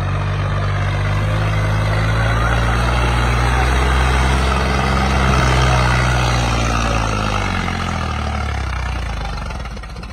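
Tractor's diesel engine running hard and steady. Its pitch sags about seven seconds in, and the sound drops off near the end.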